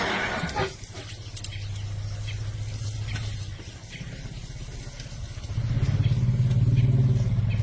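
An engine idling with a low, steady hum that grows louder about three quarters of the way through, with a brief burst of rustling noise at the very start.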